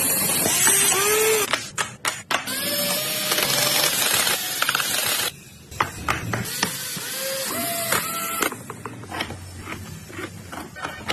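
Loud hissing in three bursts, each one to three seconds long and starting and stopping abruptly, with short squeaky rising-and-falling tones among them; quieter clicking follows.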